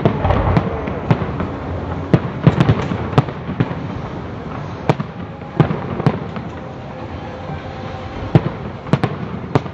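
Aerial fireworks display: shells bursting in a string of sharp bangs at uneven intervals, most densely packed in the first three seconds, over a steady background hiss.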